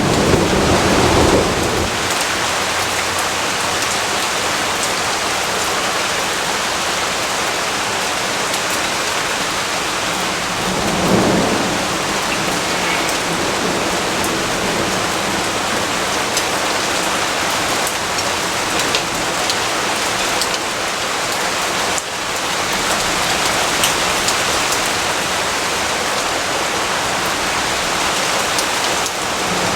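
Steady rain falling, with a low rumble of thunder at the start and another about eleven seconds in.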